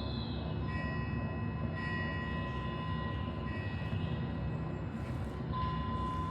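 Meditation soundscape: a steady bed of noise with long, sustained bell tones ringing at fixed pitches, swelling and fading over a few seconds.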